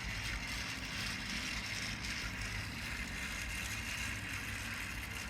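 Battery-powered TrackMaster toy engine's small electric motor and gears running with a steady whir as it pulls a line of eight trucks along plastic track.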